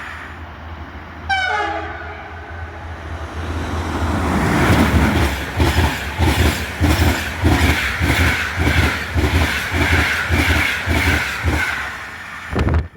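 Passenger train hauled by a Siemens Vectron electric locomotive passing at speed: a short horn blast that drops in pitch about a second in, then a rising rush and a rapid clatter of wheels over the rail joints, two to three beats a second, which cuts off suddenly near the end.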